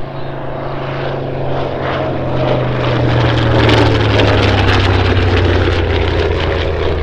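TBM Avenger's Wright R-2600 radial engine and propeller making a pass: the drone grows louder to a peak about halfway through, and its pitch drops as it goes by.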